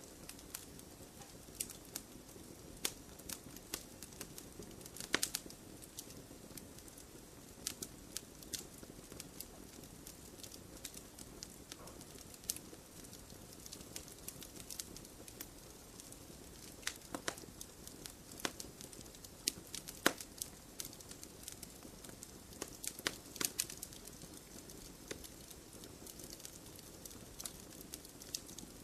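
Campfire burning steadily with a low hiss, crackling and popping irregularly; a few louder pops stand out, about five seconds in and again around twenty seconds in.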